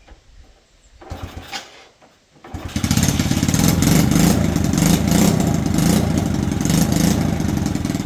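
Freshly repaired small motorbike engine being started: a brief crank about a second in, then it catches about two and a half seconds in and runs at a steady, rapidly pulsing idle.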